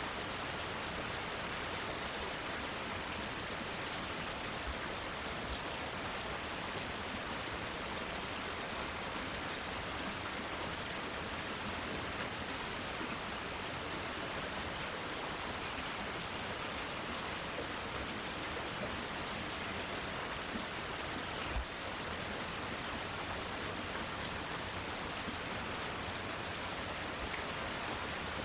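Steady rain falling, an even hiss of drops, with one sharp tap about three-quarters of the way through.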